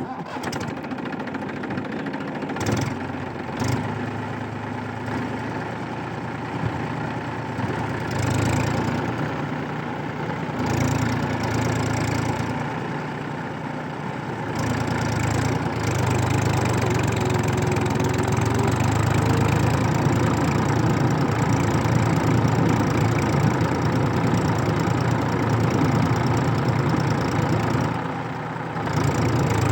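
Massey Ferguson 241 DI tractor's three-cylinder diesel engine running while the tractor works in mud, its note rising and falling and louder from about halfway on.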